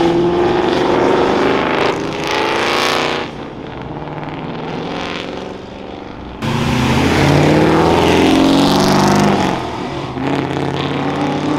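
Sports-car engines accelerating hard past on the street, revving up. About six seconds in the sound switches abruptly to a louder car whose engine climbs in pitch for about three seconds.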